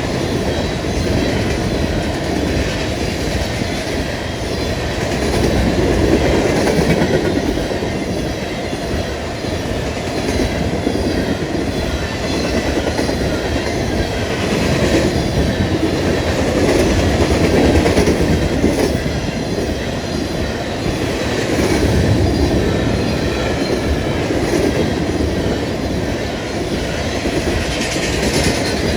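Empty ethanol tank cars of a long freight train rolling past, their wheels clicking over the rail joints in a continuous din that swells and ebbs.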